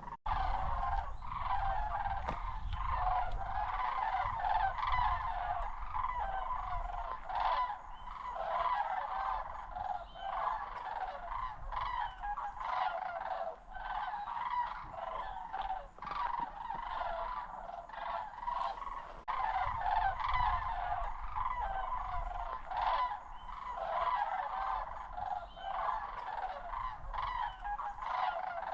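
A large flock of sandhill cranes calling, many rolling, rattling calls overlapping without a break, with a low rumble underneath.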